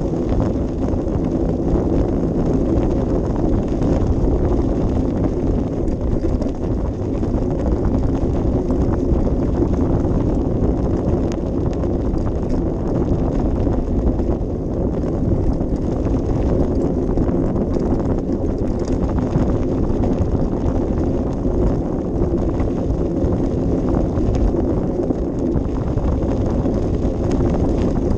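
Bicycle rolling over a rough path, heard from a camera mounted on the bike: a steady low rumble with many small rattles and knocks, and wind buffeting the microphone.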